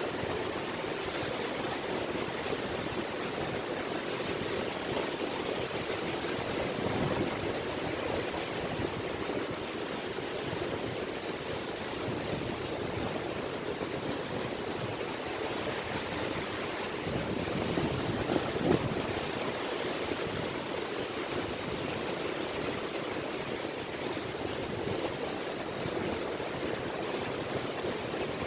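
Small sea waves lapping on a beach in a steady wash, with one slightly louder wave breaking about two-thirds of the way through.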